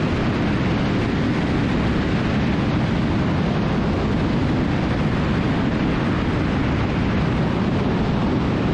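Steady engine and airflow noise of a twin-engine Cessna T310R in flight on final approach, an even rushing drone heaviest in the low end, with no distinct changes or events.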